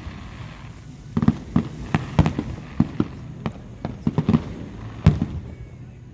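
Fireworks going off: a quick, irregular run of sharp bangs and crackles starting about a second in and stopping after about five seconds.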